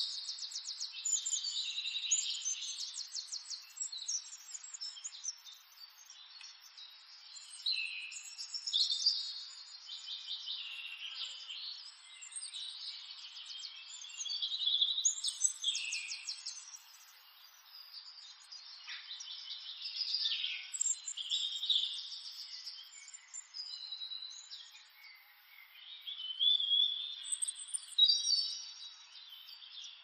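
Small birds chirping and singing, with high-pitched rapid trills and quick sweeping whistles that come in bursts every few seconds.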